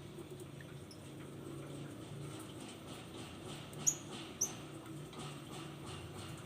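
Lovebirds heard faintly: soft scratching and shuffling, with two short high-pitched chirps about four seconds in.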